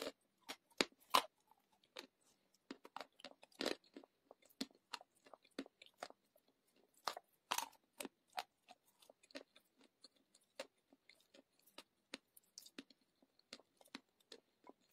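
A person biting and chewing clay, with irregular, uneven crunches; the loudest come about a second in, near four seconds and near eight seconds.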